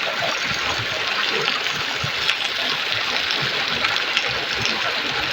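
Steady rushing of a flowing river stream.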